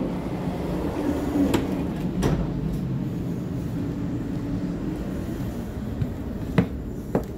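Steady low rumble inside a Sydney Trains double-deck electric passenger carriage, with a few short sharp knocks scattered through it.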